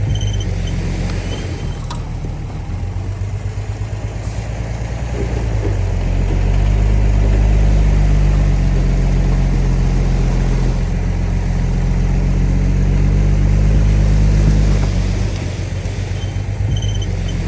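Bulldozer's diesel engine running steadily. About six seconds in it comes up to a louder, fuller note, holds it for roughly nine seconds, then eases back down.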